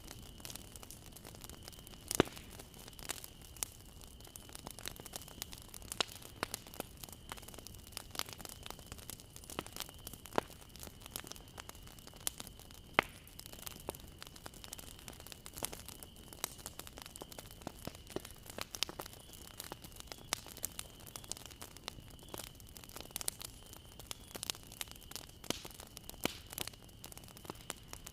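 Bonfire crackling: wood snapping and popping at irregular moments over a soft hiss of burning, with a few louder snaps about 2 and 13 seconds in.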